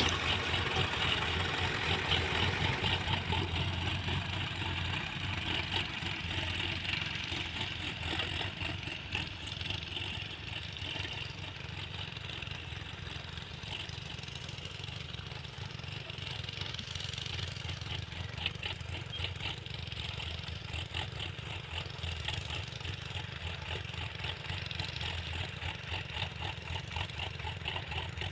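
Heavy diesel engine running steadily at a low idle-like speed, with an even pulsing throb, a little louder in the first few seconds.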